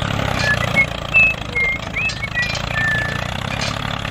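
Small engine running steadily with a fast, even chugging, with several short high chirps and squeaks over it.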